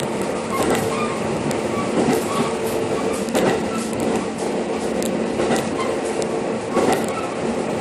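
Train running along the track: a steady rolling rumble with a held tone, broken by sharp irregular clicks of the wheels passing over rail joints.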